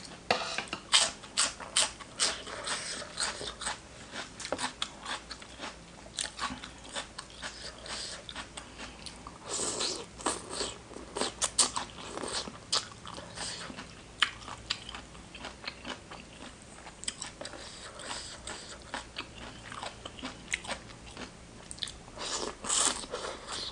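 A person chewing and biting crunchy food close to the microphone, with many irregular crisp crunches and wet chewing sounds: eating spicy seafood papaya salad with raw vegetables.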